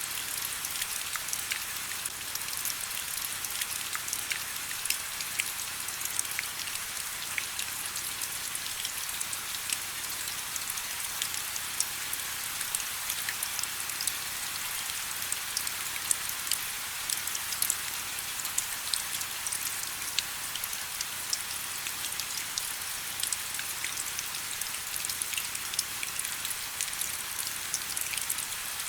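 Steady rain falling, a constant hiss with many close, sharp drop ticks on hard surfaces.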